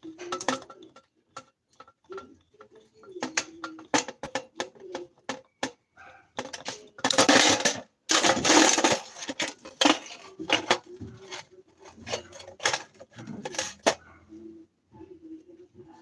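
Small metal parts clinking and knocking as they are handled, with two louder spells of hissing, rushing noise about seven and nine seconds in.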